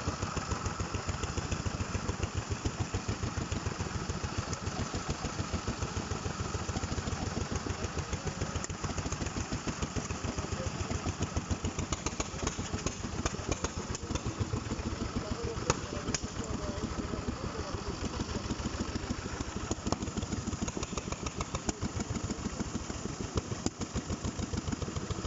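Vintage Bernard engine running steadily, with an even chugging beat of firing strokes.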